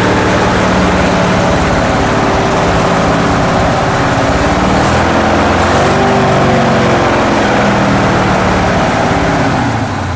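The engine of a 1968 International 1500 truck running steadily. The revs rise and fall once about halfway through, and the sound starts to die away near the end as it winds down.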